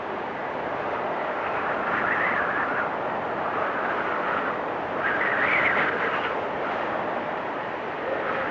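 Blizzard wind blowing steadily, with howling gusts swelling about two seconds in and again around five to six seconds in.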